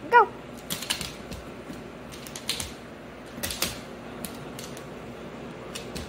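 A short high squeak that falls in pitch right at the start. Then scattered sharp clicks and taps of a German Shepherd's claws and paws on a hardwood floor as it lunges at a laser dot.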